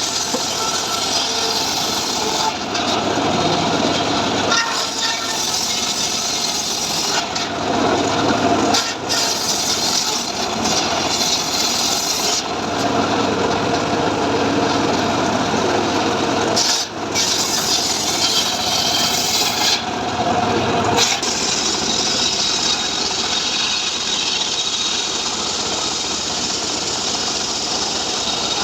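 Homemade engine-driven sawmill rig (gergaji srekel) sawing through mahogany, a continuous rasping cut with a few brief dips.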